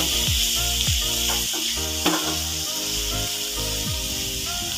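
Grated beetroot, onion and green chillies sizzling in hot oil in a nonstick frying pan, stirred and scraped with a wooden spatula. Background music with a low repeating beat plays underneath.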